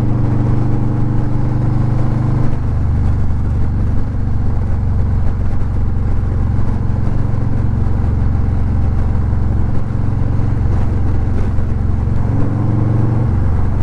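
Harley-Davidson touring motorcycle's V-twin engine running at road speed. Its note drops about two and a half seconds in and climbs again near the end.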